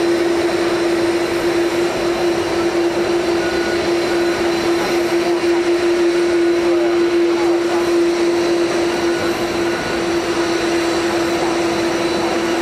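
Steady jet-turbine noise: a constant rush with a strong, unchanging hum, consistent with the Airbus A350's Rolls-Royce Trent XWB-84 engines running at idle.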